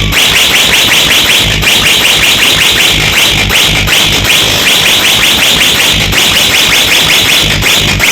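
A large DJ sound system blasting an electronic track led by a fast, alarm-like buzzing synth, short rising chirps at about five a second, over heavy bass thumps.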